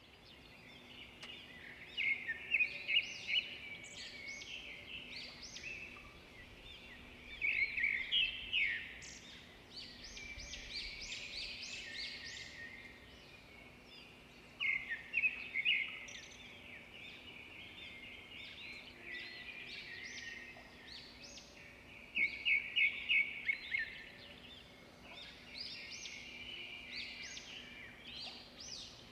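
Birds calling. One gives bursts of quick, high, repeated chirps about every seven seconds, with softer chirps between them over a faint steady background.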